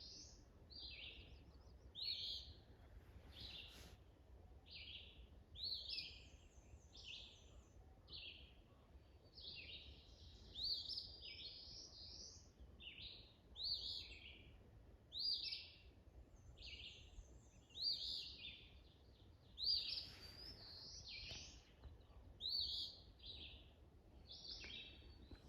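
Wild songbirds singing: short chirping phrases repeated every second or two, with a few higher buzzy trills between them.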